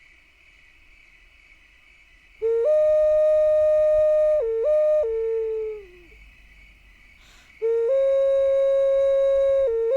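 A clear, whistle-like tone in two long phrases. Each phrase holds one steady pitch, dips briefly near its end, then slides down and fades out. A faint steady high hiss runs underneath.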